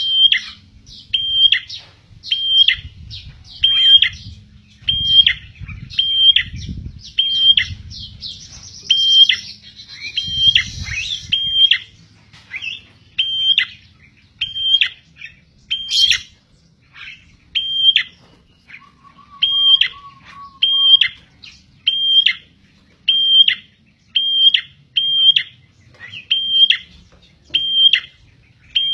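Prenjak (prinia) calling over and over: a sharp, high note that drops at the end, repeated about once a second. A low rumble sits under the first ten seconds or so, and a single sharp click comes about sixteen seconds in.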